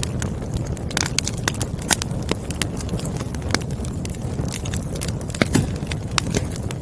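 Wood fire crackling: irregular sharp pops and snaps from burning firewood over a low, steady rumble of the flames.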